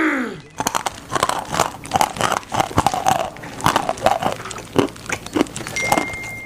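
Loud, irregular crunching and chewing, like something hard being bitten and chewed up. Near the end it gives way to a steady high beep.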